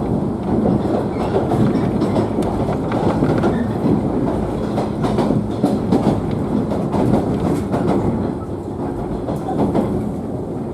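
JNR 113 series electric train running, heard from inside a motor car: a steady rumble of wheels on rail with clickety-clack over the rail joints and a steady hum underneath. It eases slightly near the end.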